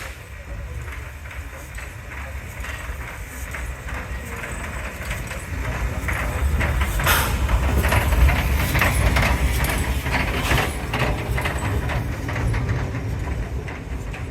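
A train passing close by, with a low rumble and rapid clattering that grow louder to a peak a little past halfway, then ease off slightly.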